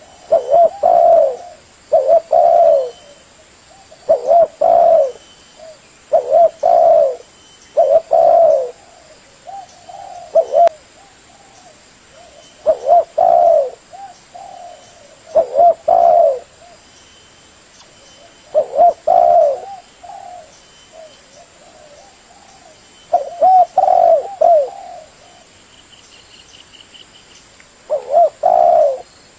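Spotted dove (tekukur) cooing: repeated phrases of two or three low coos, one phrase every couple of seconds with a few longer pauses. A brief faint high trill near the end.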